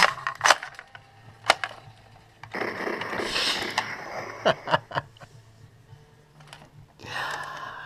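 Sharp plastic clicks and rattles from a novelty shotgun-shaped toilet plunger being handled, with a stretch of rushing noise a few seconds in and again near the end.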